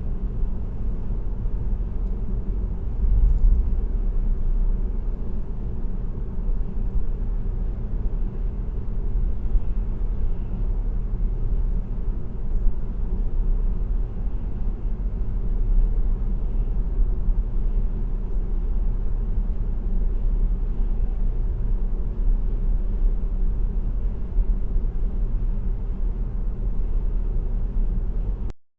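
Steady low road rumble of a car cruising at highway speed, tyre and engine noise heard from inside the cabin. The sound cuts out abruptly for a moment near the end.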